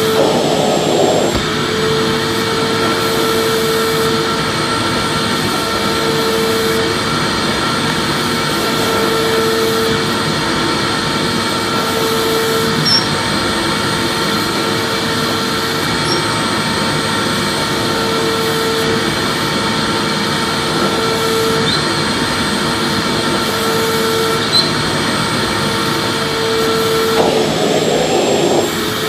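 Vacuum cleaner running steadily: a continuous rushing noise with a steady whine over it and a lower hum that swells and fades about every two and a half seconds.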